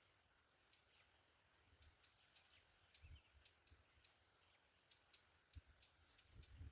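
Near silence, with faint, scattered short bird chirps in the background over a steady, faint high-pitched hum.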